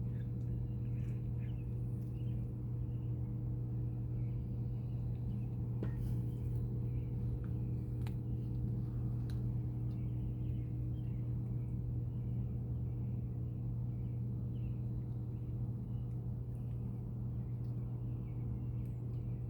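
A steady low mechanical hum with a few faint chirps and light clicks over it.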